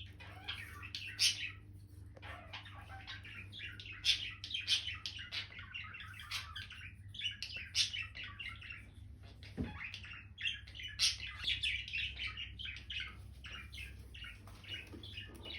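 Indian ringneck parrot chattering in a fast, busy stream of short chirps.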